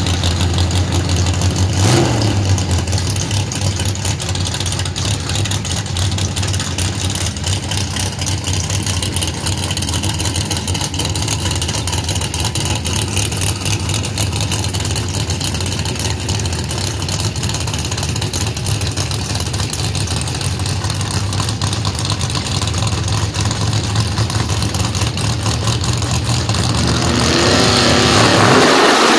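Gasser drag car's engine idling with a loud, steady low rumble and a brief throttle blip about two seconds in, then revving up hard near the end as it comes to the line for launch.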